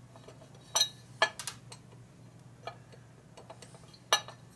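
Metal parts and tools clinking and tapping against each other in a handful of sharp, separate clicks, the loudest two near the end, as parts are handled and test-fitted during hand filing.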